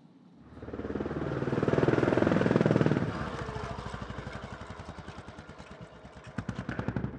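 Pit bike engine passing close by under throttle. It grows louder, peaks about two to three seconds in with its pitch dropping as it goes past, then fades as it rides away.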